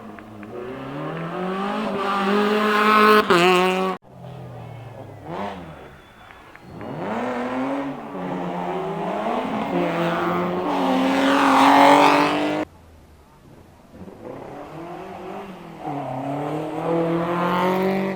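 Rally cars accelerating hard, one after another: the engine pitch climbs and falls back at each gear change. Three separate runs are heard, each one cut off abruptly.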